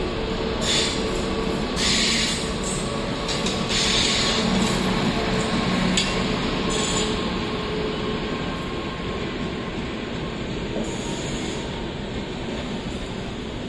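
Indian Railways WAP-7 electric locomotive and double-decker coaches passing along the platform line, a steady rumble of wheels on rail. There are several short hisses in the first seven seconds.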